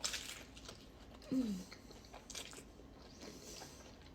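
Close-up biting and chewing of a Chipotle taco, with a few short crunches. About a second in comes a brief falling hum, a satisfied "mm".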